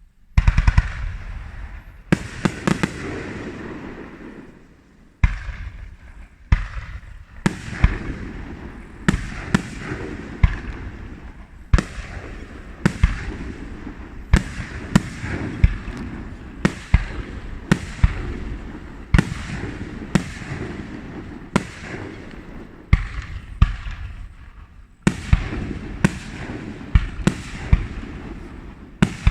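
Aerial fireworks bursting at close range: a rapid barrage of loud bangs, one or two a second, with crackle and rumble between them. It starts suddenly just after the opening, with brief lulls in the firing.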